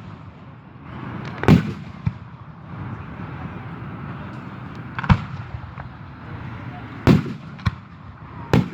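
Aerial fireworks shells bursting: four loud booms a couple of seconds apart, with smaller pops between them.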